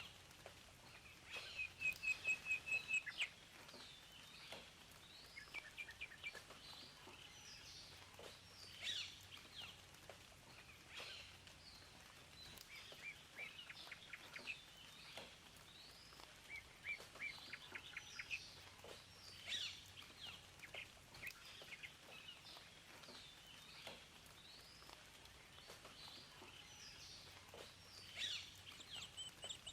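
Several wild birds singing and chirping, with short sweeping calls scattered throughout. The loudest is a rapid run of about eight quick notes about two seconds in. Behind them is a faint, even background hiss.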